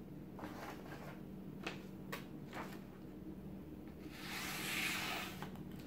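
A knife being taken out of a guided sharpener's clamp: a few light clicks and knocks, then a rubbing, sliding sound lasting over a second about four seconds in. A steady low hum runs underneath.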